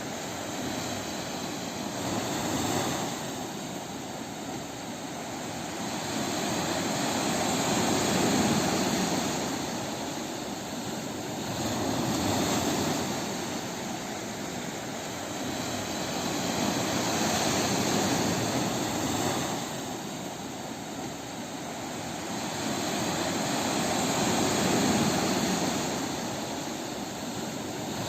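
Sea waves on a beach: steady surf noise that swells and ebbs every four to five seconds as waves break and wash back.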